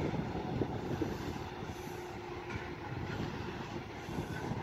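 Diesel passenger train pulling away down the line, its engine and wheel rumble steady and slowly fading.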